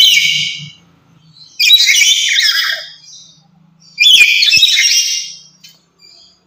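Black-capped lory giving loud, shrill screeching calls in three bursts of about a second each: at the start, near two seconds and near four seconds.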